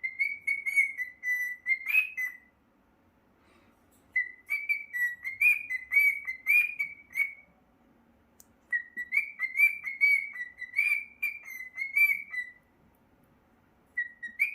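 Cockatiel whistling a tune in three phrases of quick, warbling notes, each a few seconds long with short pauses between.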